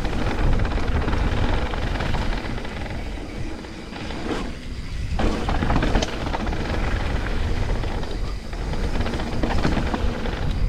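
Mountain bike riding fast down a dirt trail: a steady low rush of wind and tyre noise, broken by a few sharp knocks and rattles from the bike over rough ground.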